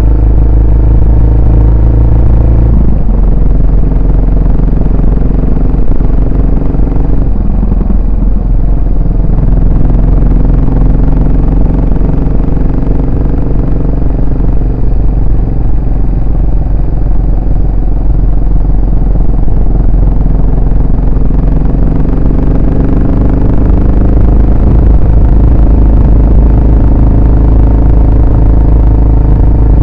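Yamaha SR400's air-cooled single-cylinder four-stroke engine and exhaust under way. The engine note drops about three seconds in, then climbs slowly again toward the end as the bike picks up speed.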